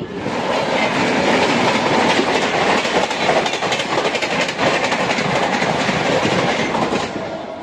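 MEMU electric passenger train running at speed, a loud rushing rail noise with rapid wheel clicking over the track. It starts suddenly and falls away about seven seconds in.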